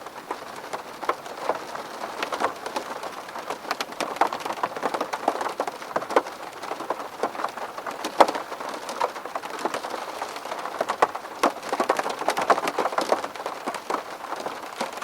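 Steady rain falling on a window pane: a dense, even wash of rain with many separate, irregular sharp taps of single drops hitting the glass.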